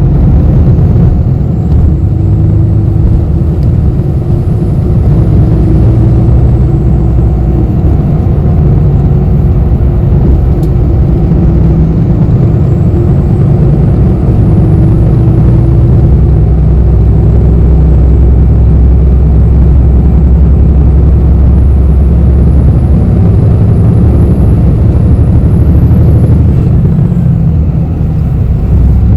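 Inside a moving city bus: a steady low rumble of engine and road noise, with a faint engine drone whose pitch drifts up and down as the bus speeds up and slows.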